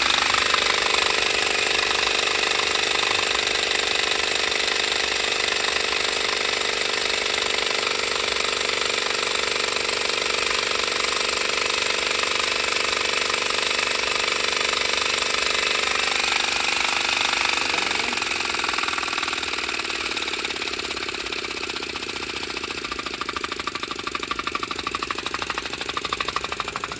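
Prototype rack-and-pinion piston engine running on compressed air at speed, a rapid steady mechanical rattle with air hiss. Its sound changes about sixteen seconds in and it grows slightly quieter toward the end.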